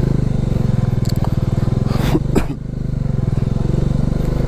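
Motorcycle engine running steadily at low revs, with two sharp knocks a little over two seconds in.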